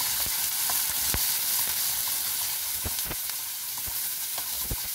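Chopped onions and green chillies sizzling in hot oil in a stainless steel pan while being stirred with a wooden spatula, with a steady hiss and irregular clicks and knocks.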